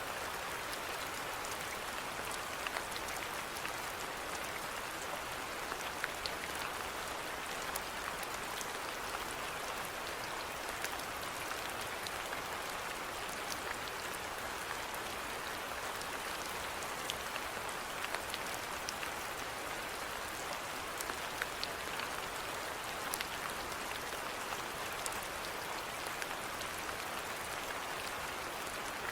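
Steady rainfall, an even hiss with scattered individual drops ticking on surfaces.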